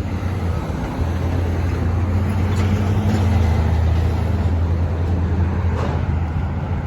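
Road traffic: a steady low engine rumble from a motor vehicle close by, swelling about a second in and easing near the end.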